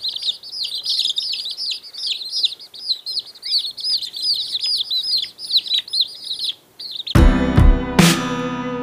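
Rapid high bird chirps, several a second, like young birds peeping, that stop about seven seconds in. Music starts suddenly at that point.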